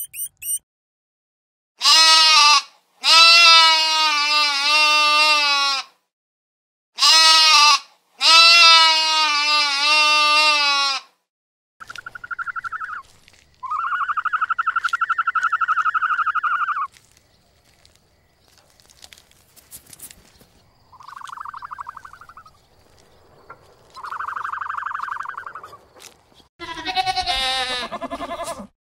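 Two long, wavering bleats in the first half. In the middle come several shorter, buzzy calls made of rapid pulses at a higher pitch, and a goat bleats again near the end.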